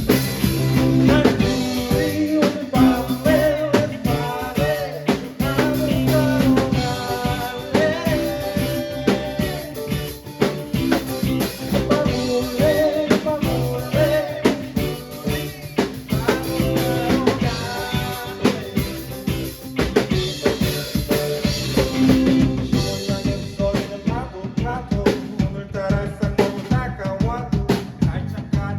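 A band playing a song: drum kit with snare rimshots and bass drum under guitar, with a singing voice over it that drops out in the last few seconds.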